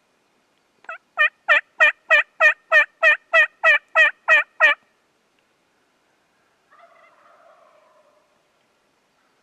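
A run of about a dozen loud, evenly spaced turkey yelps, roughly three a second, from a hen turkey or a hunter's turkey call. About seven seconds in, a faint, distant gobble follows.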